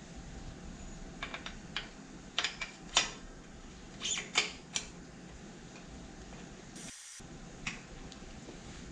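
Irregular light clicks and taps of a bicycle's disc-brake parts being handled during repair, clustered in the first half, with a brief hiss about seven seconds in.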